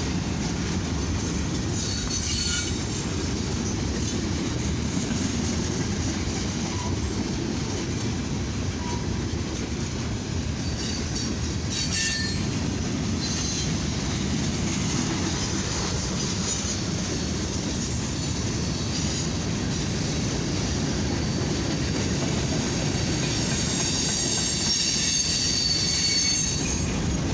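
Freight cars of a long mixed freight and steel train rolling past at about 24 mph: a steady rumble and clatter of steel wheels on rail. Brief high wheel squeals come now and then, heavier near the end.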